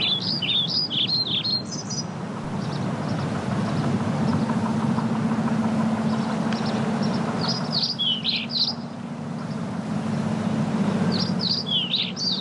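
Birds chirping in three bouts of quick, high, rising-and-falling whistles, over a steady low background hum.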